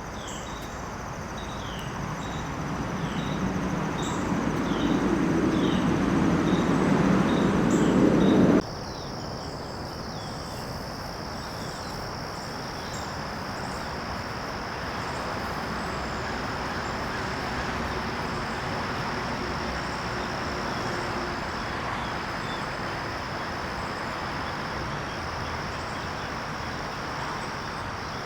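Crickets and other insects trilling steadily in a garden, with a short chirp repeating about once a second during the first part. A low rumble grows louder over the first eight seconds and cuts off abruptly, leaving only the steady insect drone.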